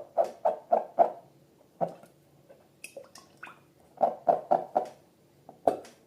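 Slime being squeezed and poked, giving runs of short wet squelches about three to four a second, with pauses between the runs.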